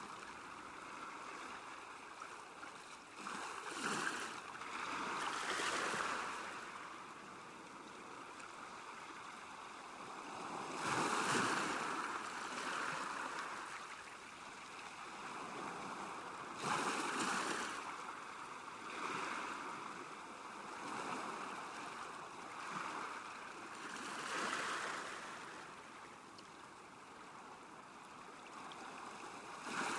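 Small waves lapping at a lakeshore, the water washing in with a swell every few seconds over a steady background wash.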